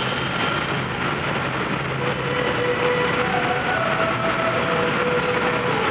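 Steady running noise of a Hokuhoku Line train, heard from inside the carriage, with faint held tones coming in from about two seconds in.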